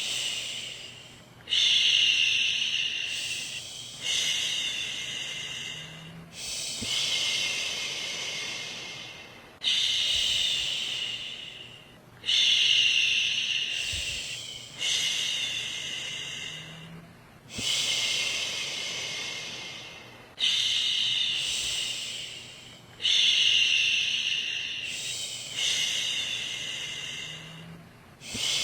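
A woman's voice shushing "shhh" over and over to soothe a baby to sleep, each long hiss starting sharply and fading away, one about every two and a half seconds.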